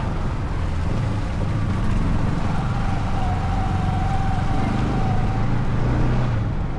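Yamaha R15 M's single-cylinder engine running steadily while riding, mixed with road and wind noise.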